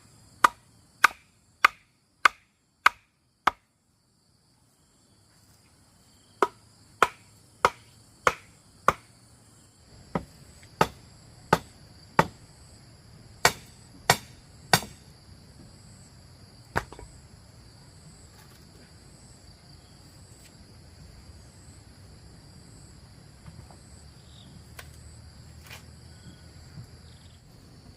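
Hammer blows in quick, even runs about 0.6 s apart: seven strikes, a pause, five more, then another seven, and a last single blow a couple of seconds later. Crickets chirr steadily throughout.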